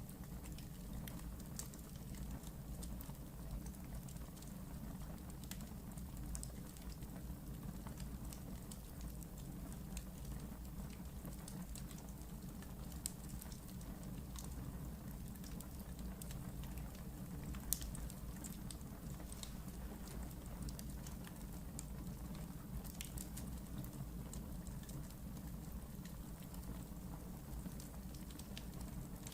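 Wood fire crackling in a fireplace: scattered sharp snaps and pops over a steady low rumble of the burning, with two louder pops about thirteen and eighteen seconds in.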